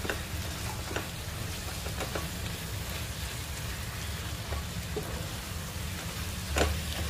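Mutton masala sizzling in a non-stick pan as a wooden spatula stirs it: a steady frying hiss with a few scrapes and knocks of the spatula against the pan, the loudest knock near the end.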